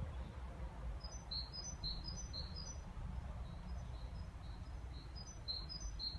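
Faint songbird song: a short high two-note phrase repeated about twice a second, starting about a second in, weaker in the middle and stronger again near the end. Under it runs a steady low rumble.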